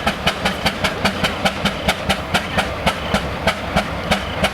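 Steam traction engine's exhaust chuffing in an even, rapid beat, about four to five chuffs a second, as it pulls under load.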